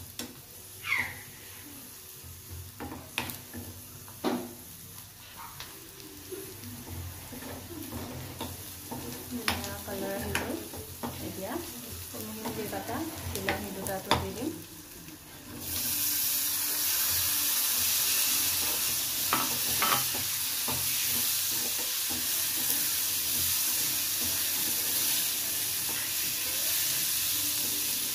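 A spoon stirs and scrapes chopped vegetables and spices frying in oil in a non-stick kadai, with clicks of the spoon against the pan. About halfway through, a loud, steady sizzle takes over as chopped tomatoes fry in the hot pan.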